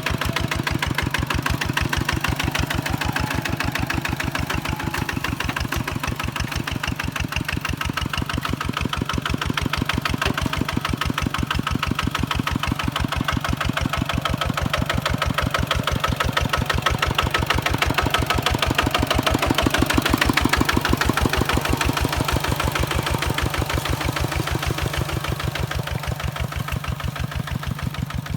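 Kubota single-cylinder diesel engine of a walking tractor running with a steady, even chug of firing strokes, getting a little louder about two thirds of the way through and easing off near the end.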